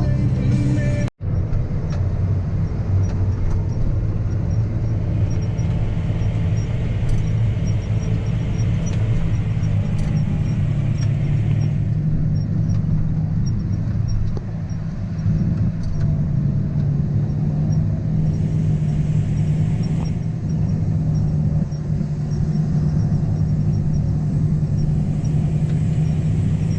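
Farm tractor engine running steadily with a low drone while pulling a grain cart, broken by a split-second dropout about a second in.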